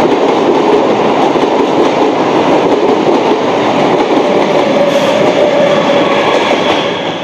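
Electric multiple-unit (EMU) suburban local train passing close at speed, a continuous loud rush with wheels clattering over the rail joints. A steady whine joins from about five seconds in, and the sound eases off near the end.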